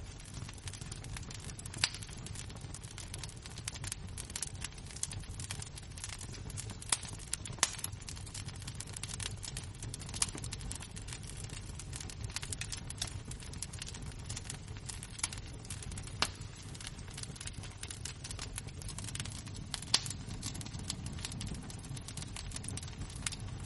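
Wood fire and glowing embers crackling, with irregular sharp pops over a low steady rumble.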